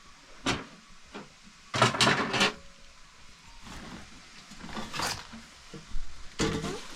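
Scattered knocks and clatters: single ones about half a second in and near five seconds, and a short cluster about two seconds in and again near the end.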